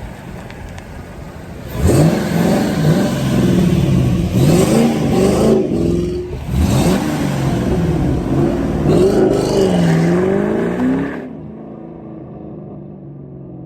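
2007 Ford Mustang GT's 4.6-litre V8 idling, then revved up and down several times through its exhaust from about two seconds in, dropping back to idle near the end.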